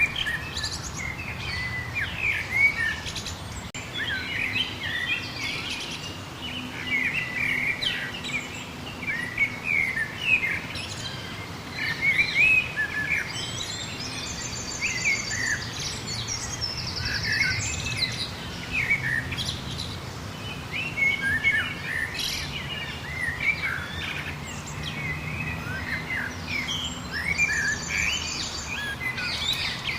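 Many songbirds chirping and calling at once, a dense mix of short whistled notes. About halfway through and again near the end, a higher, rapid trill stands out.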